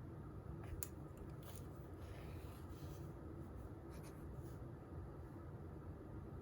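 Faint writing on paper: a few short scratchy strokes and one longer stroke about two to three seconds in, over a steady low room hum.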